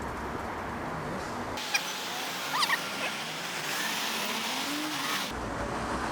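Steady wind and traffic noise while cycling in city traffic, with a few short squeaky chirps about two and a half seconds in.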